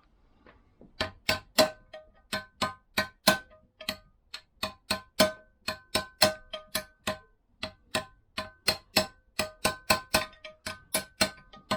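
Hammer tapping lightly and repeatedly, about three taps a second, each with a short metallic ring, driving a rubber kickstart buffer into a Vespa PX engine side case until it sits level.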